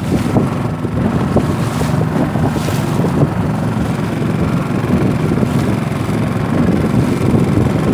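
Rabeta long-tail outboard motor running steadily on a canoe in rough, choppy water, with strong wind buffeting the microphone and waves splashing against the hull.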